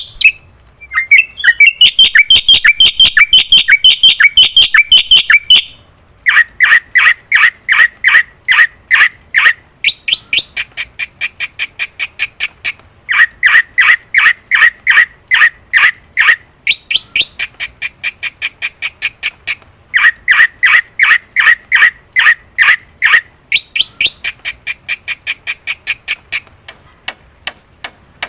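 Black-winged starling (jalak putih) calling in fast runs of sharp repeated notes, about five a second, in phrases a few seconds long with short gaps between them; some phrases sit on a lower note and others on a higher, shriller one.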